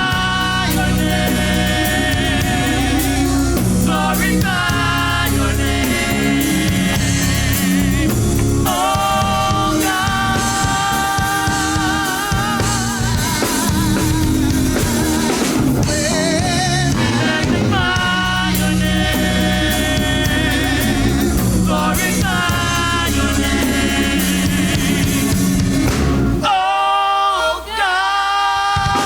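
Gospel song: a solo voice singing long, wavering held notes over a band of drums, bass and keys. Near the end the bass and drums drop out for a couple of seconds, leaving the voice nearly alone, then the band comes back in.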